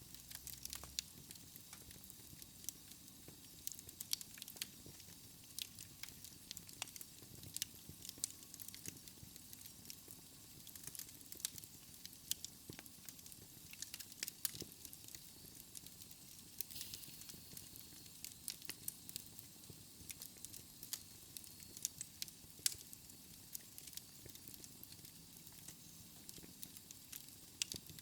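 Fire in a fireplace crackling: irregular sharp snaps and pops, several a second, over a steady hiss.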